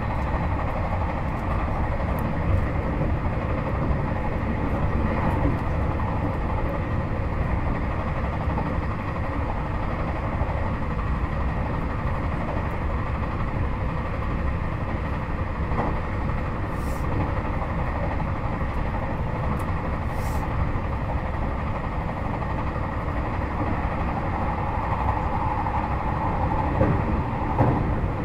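Interior running noise of a JR Hokkaido 721 series 4000 subseries EMU motor car with Toshiba GTO inverter, running between stations: a steady low rumble of wheels on rail and running gear.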